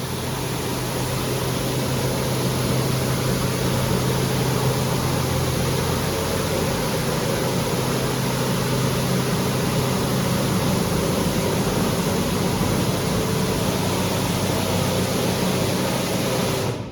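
WashTec automatic car wash spraying high-pressure water jets: a steady loud hiss over a low hum, which stops abruptly near the end.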